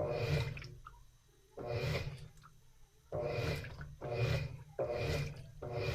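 Washing machine in its wash phase, the motor running in short strokes about every second and a half with water swishing in the tub, a low hum under each stroke.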